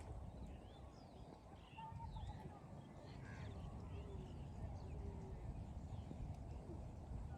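Birds calling with many short chirps scattered throughout, over a steady low rumble.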